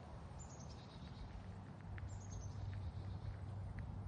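A songbird singing twice: each song is a quick run of high notes falling in pitch, repeated about every two seconds. A steady low rumble runs underneath.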